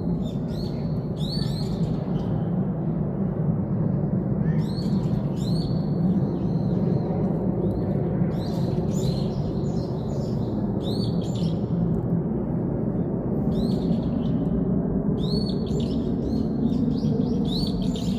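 Birds chirping in repeated short groups of high whistled notes, over a steady low background rumble.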